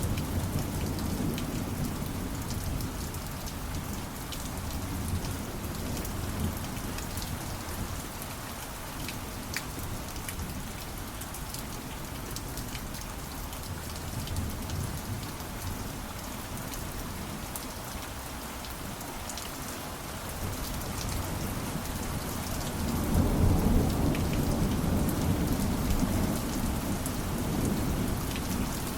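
Steady rain with scattered drop ticks over a low rolling thunder rumble. The rumble eases off in the middle and swells again about two-thirds of the way through.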